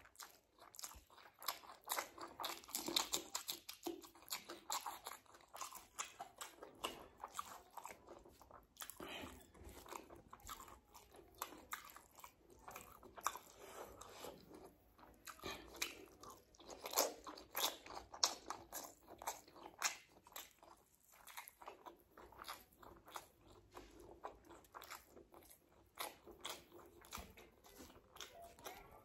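Close-up eating sounds of a person chewing boiled eggs and curry-soaked rice: many quick, wet mouth clicks and smacks with no pause.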